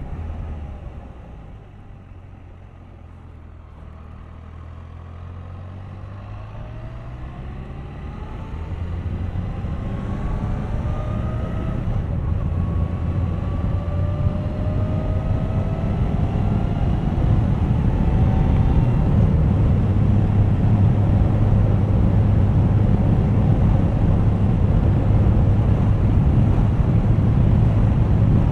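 Suzuki GSX1250FA's inline-four engine on the move: it goes quiet about two seconds in, then pulls away, its pitch rising as it accelerates and the overall sound growing steadily louder until it holds at a loud, even cruise for the last ten seconds.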